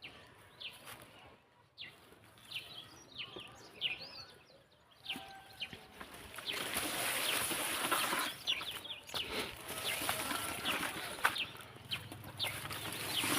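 Birds chirping in short, repeated calls, with a steady rushing noise joining about six seconds in.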